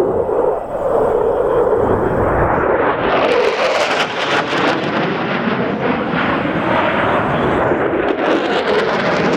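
EA-18G Growler jet engine noise, loud and continuous. It turns harsher about three seconds in, with a crackling edge.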